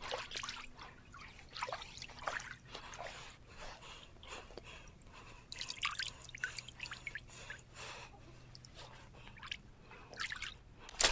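Shallow water splashing and dripping in irregular small splashes, with a busier stretch about halfway through.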